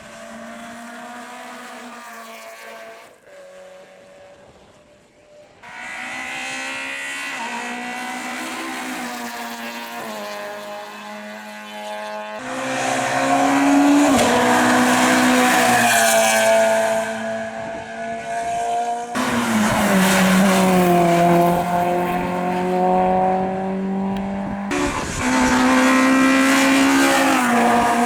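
Rally car engines revving hard as the cars pass on a special stage. The engine note climbs and drops with throttle and gear changes, in several short stretches, each of which starts or stops abruptly.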